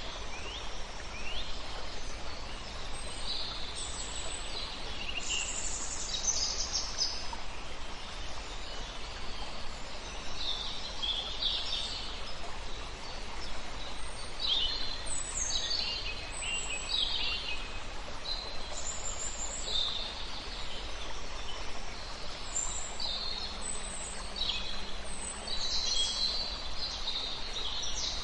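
Several songbirds chirping and singing in short phrases over the steady rush of a river.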